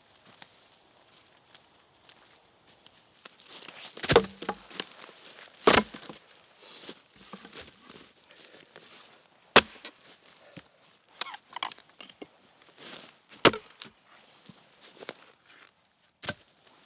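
Wood being chopped with a blade: five sharp, irregularly spaced strikes, with softer knocks and rustling between them.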